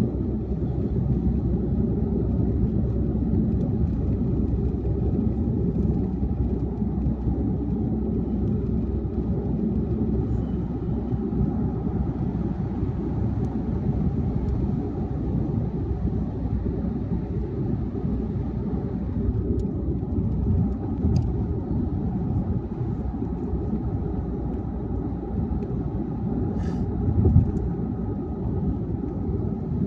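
Car driving on a highway: a steady low rumble of tyre and road noise with the engine underneath. There is a brief low thump about three-quarters of the way through.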